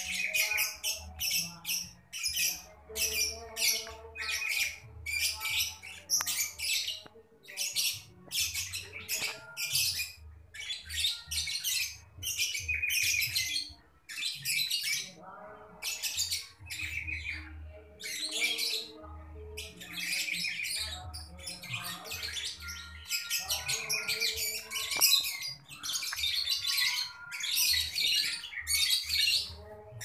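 Birds chirping and squawking in short, high bursts, about two a second, with fainter lower calls beneath.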